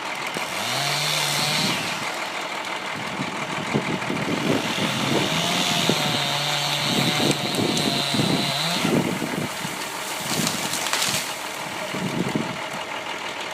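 Chainsaw revving up and cutting in two bursts, a short one near the start and a longer one of about four seconds in the middle, with sharp knocks and cracks through the middle and a couple more a few seconds later.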